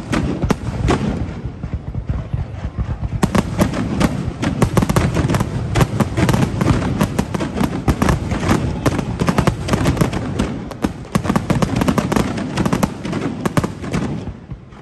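Aerial fireworks going off in quick succession: a dense run of bangs and crackling reports, many a second, that thins out near the end.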